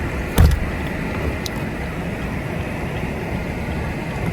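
Truck running steadily, a continuous engine and road noise, with a single sharp knock about half a second in.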